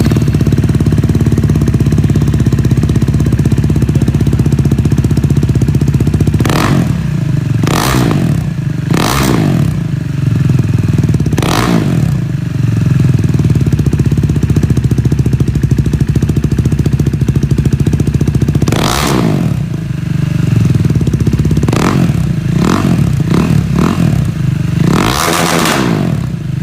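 KTM Duke 390's single-cylinder engine idling steadily, then revved in short, sharp throttle blips that each fall back to idle, with a quick run of several blips near the end.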